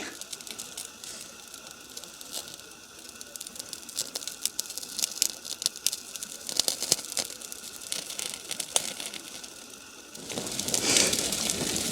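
A just-lit fire crackling: irregular sharp snaps and pops as newspaper and kindling catch in a brush pile. About ten seconds in, a louder steady rushing noise takes over.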